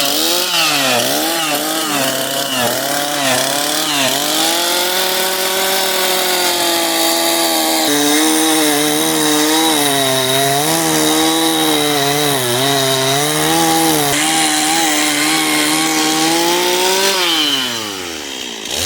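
Gas chainsaw cutting into a large pine trunk, its engine pitch repeatedly sagging under load and picking back up as the chain bites. Near the end the throttle is let off and the engine winds down toward idle.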